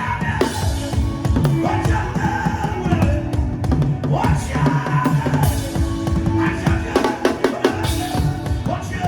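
Drums played in a fast, busy rhythm as part of music, with held melodic notes sounding above the beat.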